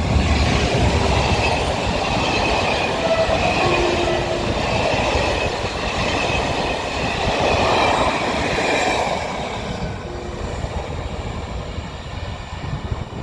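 ONCF passenger train hauled by electric locomotive E-1470 passing close by, its wheels running loudly over the rails with a thin, steady squeal. The noise holds for about nine seconds, then starts to fade as the train moves away.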